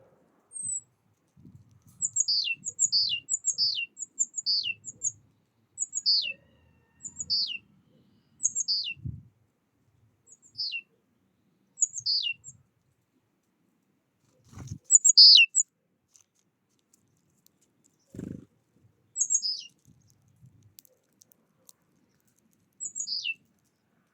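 A small songbird calling, a series of short, high notes that each slide sharply downward, sometimes in quick runs of two or three, at irregular intervals. A few faint low thuds are heard in between.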